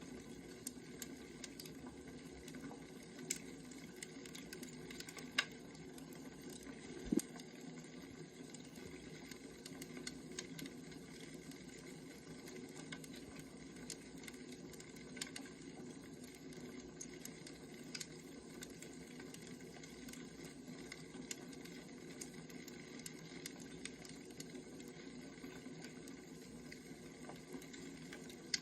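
Wood fire crackling: scattered sharp pops and ticks over a steady low hiss of burning logs, with two louder snaps about five and seven seconds in.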